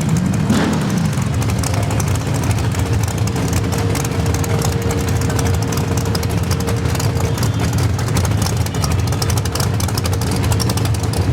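Fulton 706 all-aluminum big-block V8 in a 1967 Nova drag car, with a quick throttle blip just after the start, then running steadily at idle.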